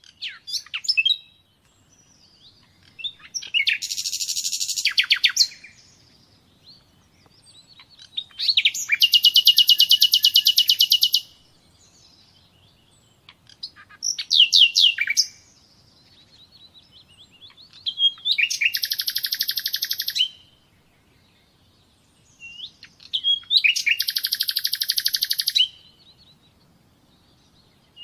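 A songbird singing in phrases of very fast, high trills, each lasting a second or two, with short pauses between them.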